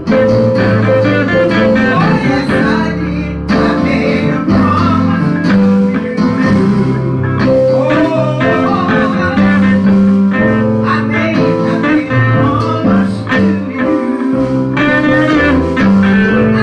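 Loud live gospel music from a church band, with a guitar playing melodic lines over sustained bass notes, and some singing mixed in.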